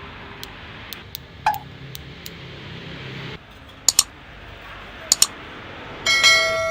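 Small metal parts clinking as they are handled: a few sharp clicks, two double clicks, then one piece rings with a clear metallic tone for about a second near the end.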